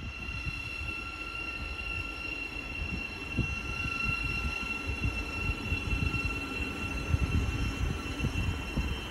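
Class 700 electric multiple unit running along the line: a low rumble of wheels and running gear with a steady high whine on top, growing slightly louder.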